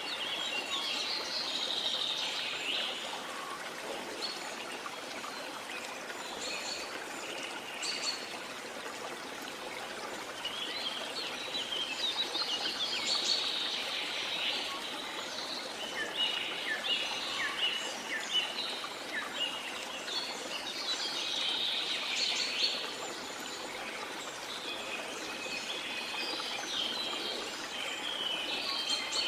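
Waterfall rushing steadily, with many jungle birds chirping over it in bursts of quick high notes.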